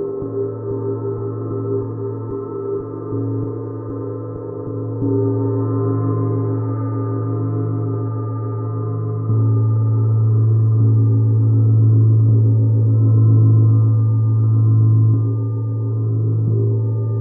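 A gong played softly, a sustained low hum with a shimmer of many steady overtones that swells with fresh strikes, most clearly about nine seconds in.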